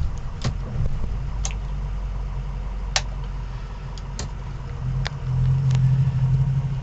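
Ford F-350's 6.0-litre Power Stroke V8 turbodiesel running, heard from inside the cab, getting louder about five seconds in. A few sharp clicks sound over it.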